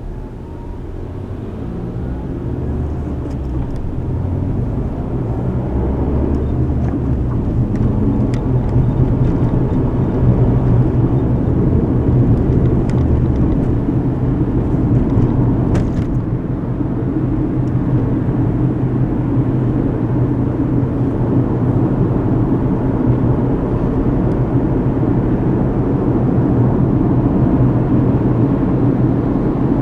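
Car driving, heard from inside the cabin: a steady low rumble of engine and tyre noise that grows louder over the first several seconds as the car gathers speed, then holds steady. A couple of faint clicks come midway.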